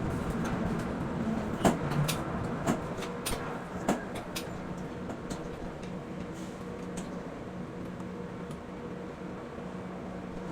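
Container quay crane machinery running with a steady hum, with several sharp metallic knocks in the first four seconds.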